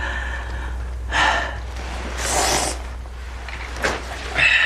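A wounded man's breaths in pain: a few short, sharp breathy inhales and exhales, one about a second in, one at about two and a half seconds, and one near the end, over a steady low hum.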